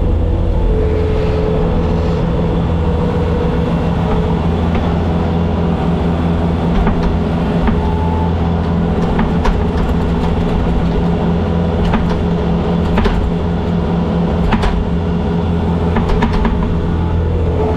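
Bobcat skid-steer loader's diesel engine running steadily, with scattered sharp clicks and knocks through the second half.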